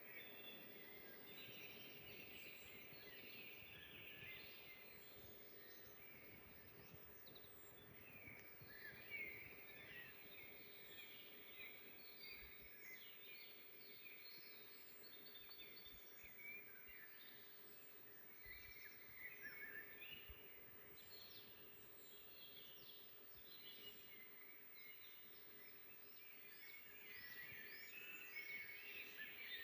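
Faint chorus of several songbirds chirping and trilling at once, many short overlapping calls, over a steady low hiss and a faint steady hum.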